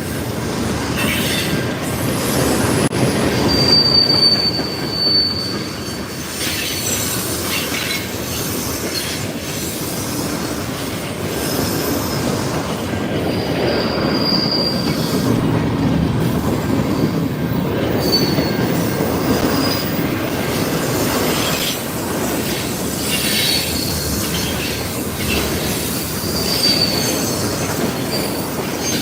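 Freight cars of CN train M313 rolling past in a steady rumble, wheels clacking over the rail joints. Short high wheel squeals come several times, the loudest about four seconds in.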